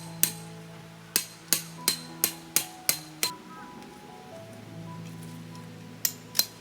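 Hammer blows ringing on metal: one strike, then a run of seven about three a second, a pause, and two more near the end. Soft background music plays underneath.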